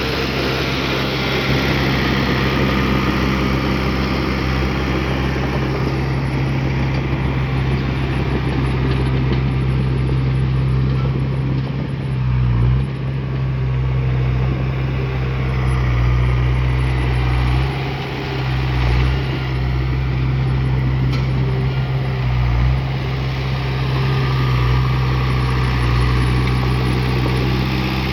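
Bulldozer's diesel engine running steadily, its note shifting briefly several times, around 12, 18, 19 and 22 seconds in, with a haze of mechanical noise over it.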